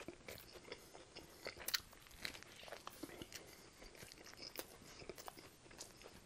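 Close-miked chewing of a mouthful of A&W Teen Burger: many short, wet mouth clicks and smacks at irregular intervals.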